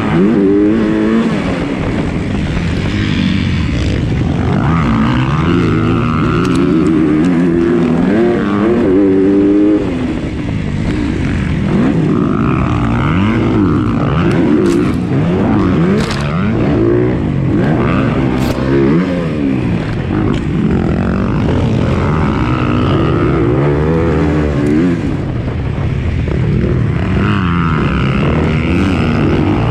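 Motocross bike engine revving up and down over and over, its pitch rising on acceleration and falling off between, with a few sharp clicks about halfway through.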